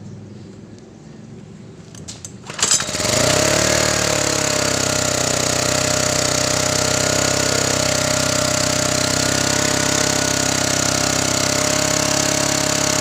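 Honda portable generator's small engine starting about two and a half seconds in: a few sharp clicks, then the engine catches, swings up in speed and settles into a steady run.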